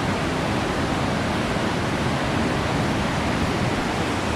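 Humboldt Falls waterfall's steady rushing noise, an even wash of sound with no breaks.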